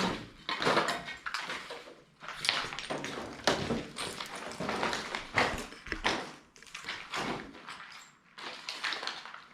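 Footsteps scuffing and knocking across a hard floor, about one step a second, irregular in strength.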